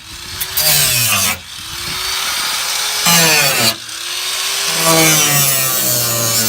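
Angle grinder with a sanding disc grinding metal smooth where the factory seat mounts were cut from the car's floor. It works in a few passes with short breaks, and the motor's pitch rises within each pass.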